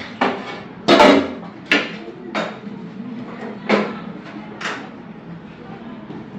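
A series of about six irregular knocks and clatters, like metal tools striking and handling a gas cooker, each with a brief ring after it.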